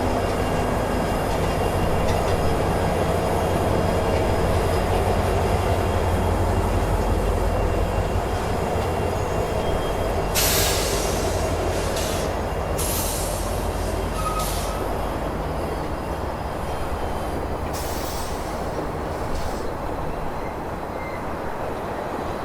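CSX freight train rolling past with a steady low rumble. A few short, sharp high-pitched bursts from the wheels come about halfway through and again near the end.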